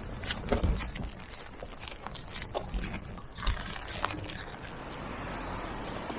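Scattered clicks, knocks and low thumps from footsteps and a hand-held camera being carried outdoors, with wind buffeting the microphone. A steady rushing noise comes in about five seconds in.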